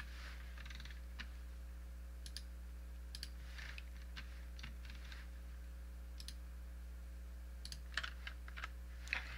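Scattered, irregular computer keyboard keystrokes and mouse clicks over a steady low electrical hum.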